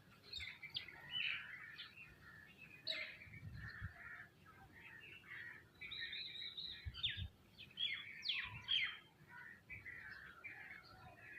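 A flock of small birds, sparrows and mynas among them, chirping continuously in many short, overlapping calls, with a few faint low thumps.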